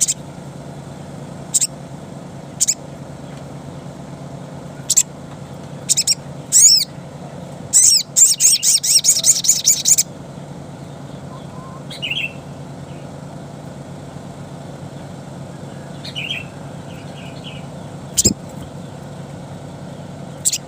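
Ruby-cheeked sunbird (sogon) calling in its wild 'ngalas' style: scattered sharp high chirps, a couple of downward-sweeping notes, then about eight seconds in a fast rattling trill of roughly ten notes a second lasting two seconds, with a few softer, lower chirps later. A steady low hum runs underneath.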